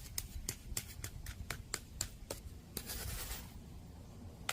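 Asphalt patch being tamped down by hand, a quick series of sharp taps at about four to five a second that stops after about two seconds. A brief scraping rustle follows, and there are two more taps near the end.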